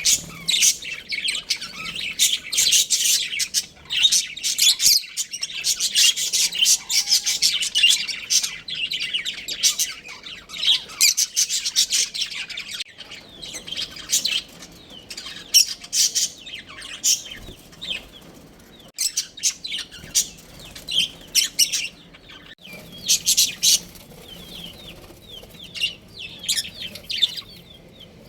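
A group of budgerigars chirping and chattering in rapid high calls. The calls are dense at first and thin to scattered chirps about halfway through.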